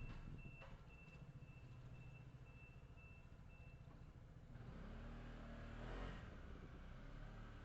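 Faint low rumble of a car driving in city traffic, recorded by a dashcam. A high beep repeats about twice a second for the first four seconds, and a passing vehicle swells up and fades around the middle of the stretch.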